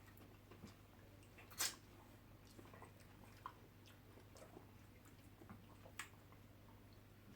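Faint eating sounds of soft banku dough and vegetable soup: scattered wet mouth clicks and smacks from chewing, with a sharper click about one and a half seconds in and another about six seconds in.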